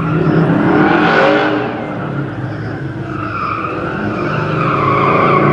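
LS1 V8 in a 1972 Chevrolet C10 pickup running hard around an autocross course, its engine pitch rising and falling as it works through the turns, with tire squeal. It is loudest about a second in.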